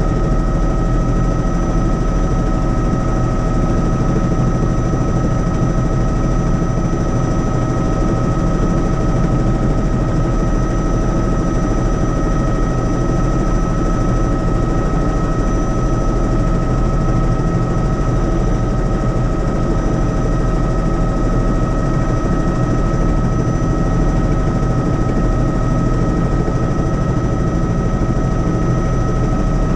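Helicopter engine and rotors running steadily, a dense low rumble with a constant high whine over it and no change in pitch.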